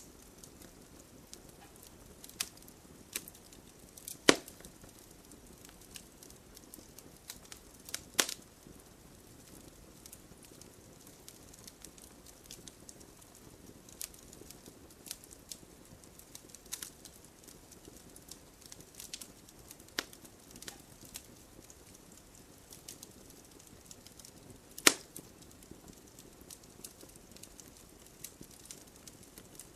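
Wood campfire burning steadily and crackling, with irregular small pops over a faint hiss of flame and three louder snaps: about 4 s in, about 8 s in, and near 25 s in.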